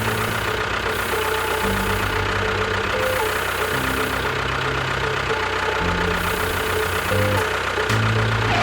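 A small engine running steadily with a fast knocking rattle, over background music.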